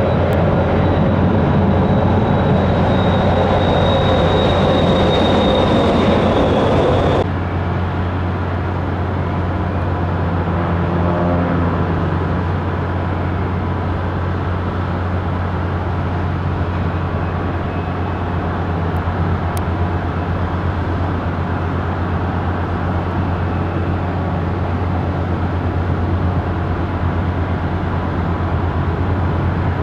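Jet airliner engine noise. Over the first seven seconds a jet runs with a high turbine whine until it cuts off abruptly, then steadier, slightly quieter jet engine noise follows as a Boeing 737-400 prepares for take-off.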